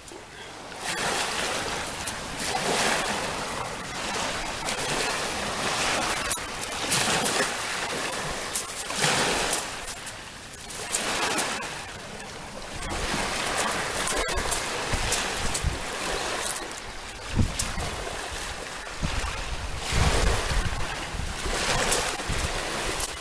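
Sea waves breaking and washing up the shore in repeated surges that swell and fade every couple of seconds, with wind gusting on the microphone.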